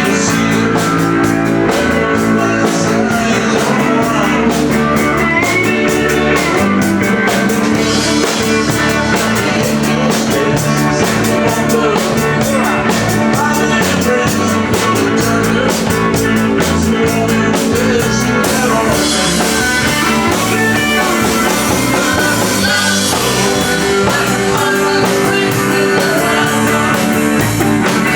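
Live band playing a country-rock number on electric guitar, bass and drum kit, with steady hi-hat ticks through the first two-thirds and a cymbal wash taking over about two-thirds of the way in.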